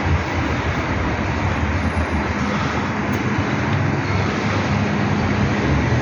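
Steady road traffic noise with a low engine drone running underneath.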